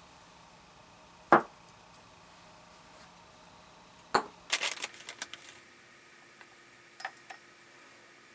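Separate knocks and clinks of kitchen utensils: a loud knock about a second in, another about four seconds in followed by a quick run of light clicks, and a pair of clicks near the end.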